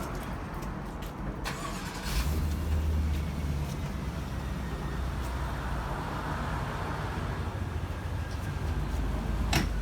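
City street traffic: cars and other vehicles passing with a steady low rumble, a heavier low surge about two seconds in, and a sharp click near the end.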